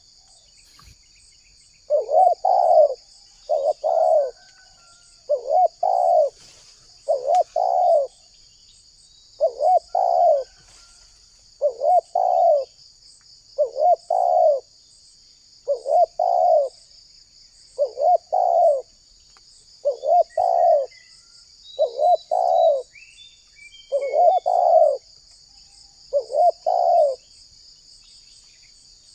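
Spotted dove cooing: a short phrase of several coos repeated about every two seconds, starting about two seconds in and stopping shortly before the end, over a steady high buzz of insects.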